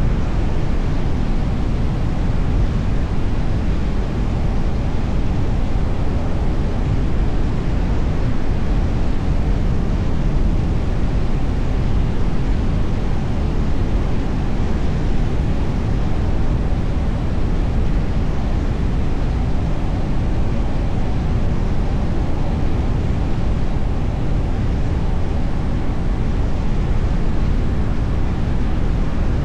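Steady road noise of a car driving along, a low rumble of tyres and engine with no separate events standing out.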